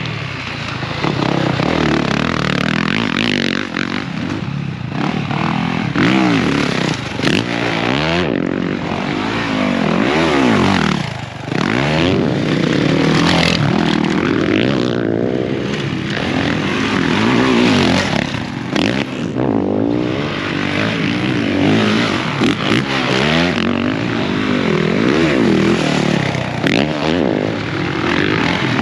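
Motocross dirt bike engine being ridden hard, its pitch repeatedly climbing on the throttle and dropping off between, with a short drop in level about eleven seconds in.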